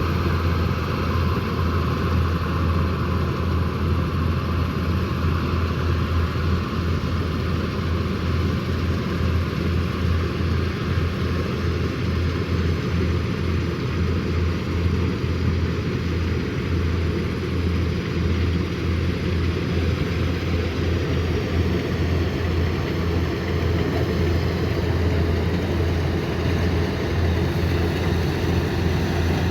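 Kubota combine harvester's diesel engine and threshing machinery running steadily while harvesting rice, a continuous machine drone with a strong low hum.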